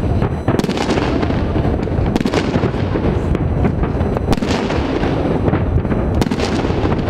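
Many fireworks going off across the city at once: a continuous din of overlapping bangs and crackles, with sharper reports standing out every second or two.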